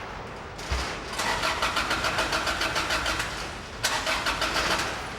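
Car engine cranked by its starter motor without catching, in two tries: a rhythmic churning of about five beats a second for nearly three seconds, then a second, shorter try of about a second. The engine will not start.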